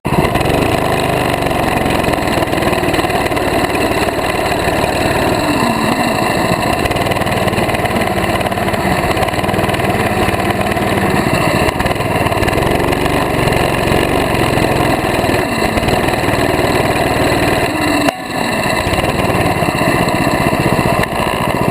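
Mini bike's small engine running steadily under way, its pitch wavering a little, with a brief drop about eighteen seconds in.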